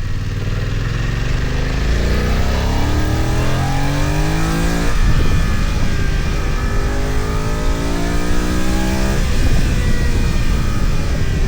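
BMW F900XR's 895 cc parallel-twin engine pulling hard under acceleration, its note rising steadily. The rise is cut by an upshift about five seconds in and another about nine seconds in, after which it runs steadier.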